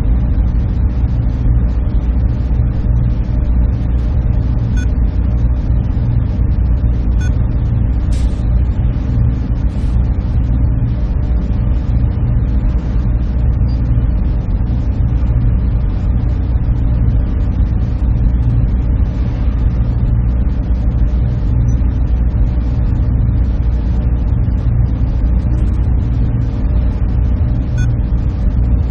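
Server room ambience: a steady low drone of server cooling fans and air handling, unchanging throughout, with a few faint ticks over it.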